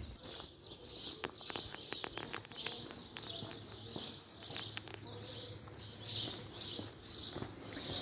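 A small bird chirping over and over, short high chirps about two to three a second.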